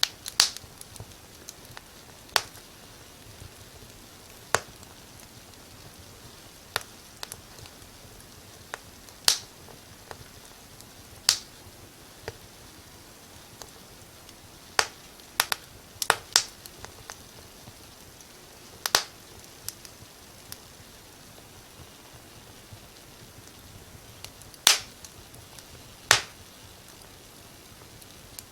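Wood fire crackling: sharp, irregular pops and snaps every second or two over a soft steady hiss.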